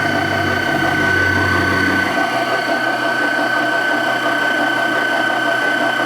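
Electric kitchen mixer running steadily through a cake batter, with a constant high motor whine.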